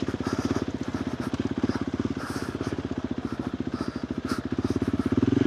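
KTM 390 Adventure R's single-cylinder engine running at low revs through a Norifumi Whoops stainless slip-on exhaust, giving a steady, rapid train of exhaust pulses that swells a little louder near the end.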